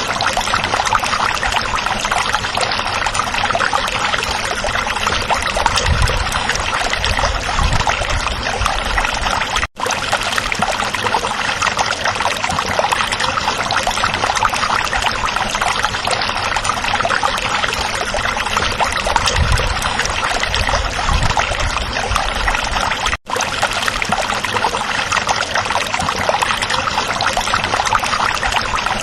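Stream water flowing and trickling steadily. The sound cuts out for an instant twice: about ten seconds in, and again some thirteen seconds later.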